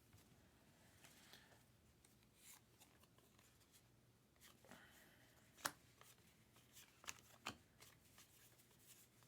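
Quiet handling of trading cards: faint rustling as cards slide against each other, with a few sharp clicks, the loudest about halfway through.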